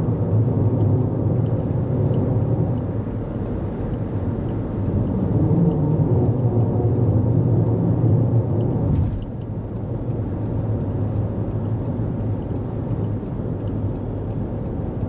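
Toyota Corolla Cross cruising on the highway, heard from inside the cabin: a steady low rumble of road and engine noise that drops a little about nine seconds in.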